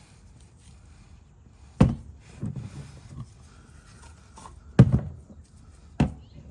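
Four sharp knocks and clunks, the loudest about five seconds in.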